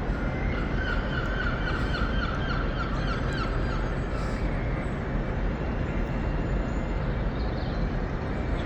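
Class 800 train running in to the platform with a steady rumble. A high whine falls slightly in pitch for a few seconds early in the arrival.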